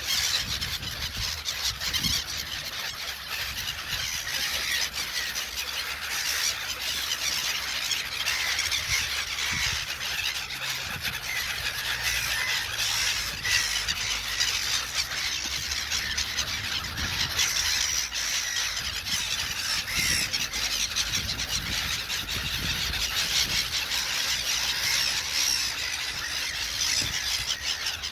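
A flock of gulls calling continuously, many high squealing cries overlapping into a dense chorus.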